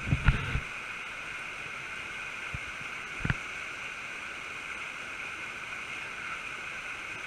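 Creek water rushing through a small natural whirlpool: a steady, even rush, with a few low thumps in the first half-second and a brief click about three seconds in.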